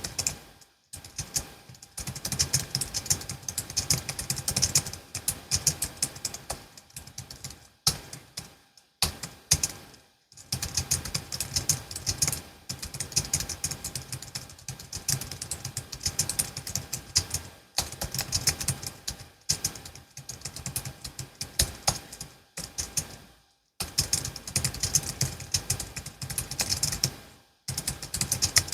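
Typing on a Logitech MX Keys S low-profile scissor-switch keyboard: fast runs of soft key clicks lasting several seconds each, broken by brief pauses.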